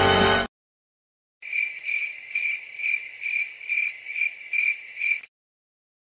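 A music clip cuts off half a second in. After a short silence comes a cricket chirping sound effect: about nine evenly spaced, high-pitched chirps, a little over two a second, that stop suddenly.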